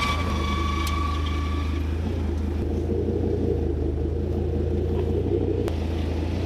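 A car engine running steadily at idle with a deep rumble.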